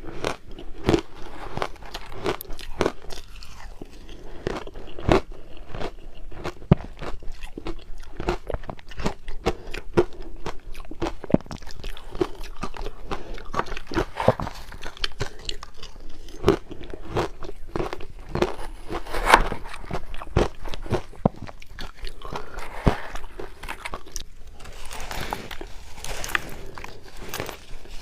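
Close-miked chewing of crushed ice: a rapid, irregular run of crunches and sharp cracks as the pieces break between the teeth, with a few louder cracks here and there.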